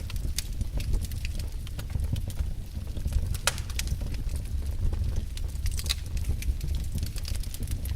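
Wood fire burning in a fireplace: a steady low rumble with irregular sharp crackles and pops, one louder pop about three and a half seconds in.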